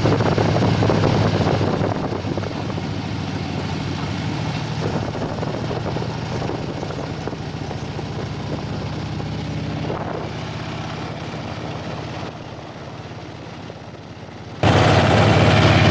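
Motorcycle engine running steadily on the move, with wind and road noise. It drops in level about two seconds in and again near the end, then jumps back up suddenly just before the end.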